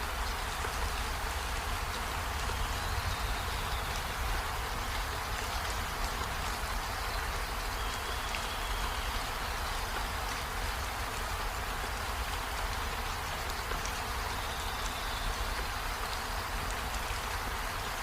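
Steady rain falling, an even dense patter of drops with a low rumble underneath.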